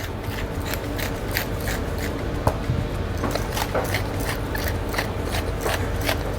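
Hand-twisted salt and pepper mill grinding seasoning, a steady run of small irregular ratcheting clicks, over a steady low hum.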